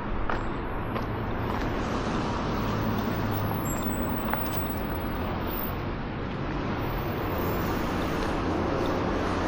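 Steady road traffic noise: cars and other vehicles passing on a busy street, a continuous low rumble with no single standout event.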